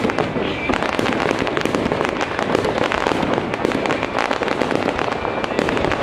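Fireworks display: a dense, unbroken barrage of sharp bangs and crackling pops from shells bursting overhead.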